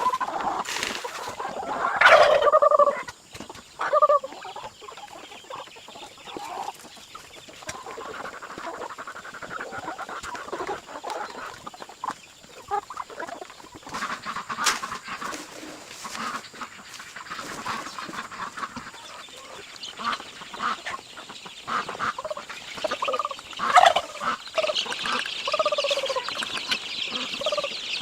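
Chickens clucking and calling, with a few louder calls about two seconds in and again near the end.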